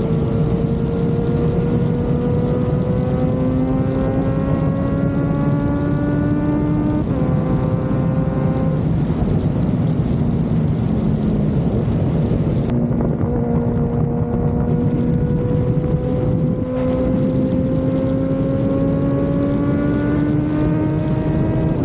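Kawasaki Z900 inline-four with a full-system exhaust under way on the road. The engine note climbs slowly and steadily in each gear, with a few upshifts where the pitch drops and then climbs again. Wind and road rush run underneath.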